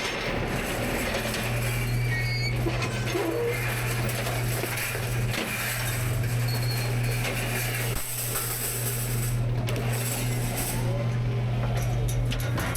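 Rear-loader garbage truck running its hydraulic packer: a steady low engine and pump hum over mechanical clatter, with a short dip about eight seconds in.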